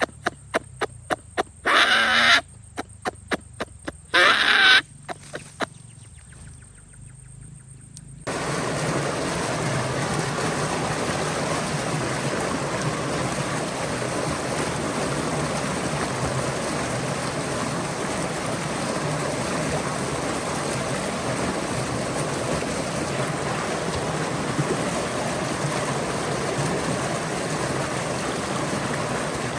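Stream water running steadily from about eight seconds in. Before that, a run of sharp clicks and two short, loud pitched sounds about two seconds apart.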